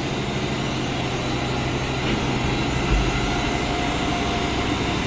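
Ship's machinery running steadily below decks, a constant hum over a dense mechanical noise. A single dull low thump about three seconds in.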